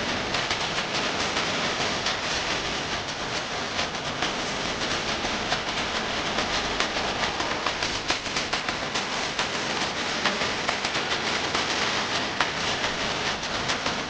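Steady, dense noise full of small crackles and clicks.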